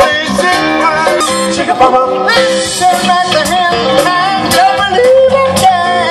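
A live band playing a Motown song: a singer's voice over guitar and drums.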